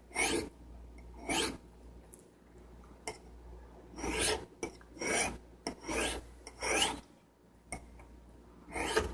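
Steel blade of a serrated steak knife drawn across a sharpening stone in short, rasping strokes, about six of them with a pause of a couple of seconds after the second. The strokes are grinding a nick out of the edge.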